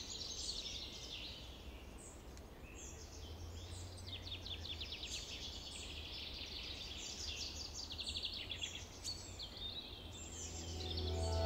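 Several songbirds chirping and singing quick trills, over a low steady hum. Soft music fades in near the end.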